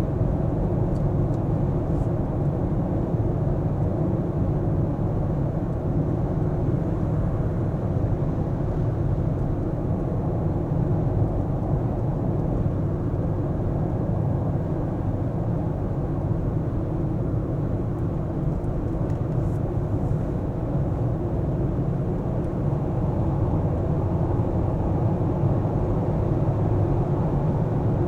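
A car being driven: a steady low rumble of road and engine noise, even throughout, with no horns or sudden sounds.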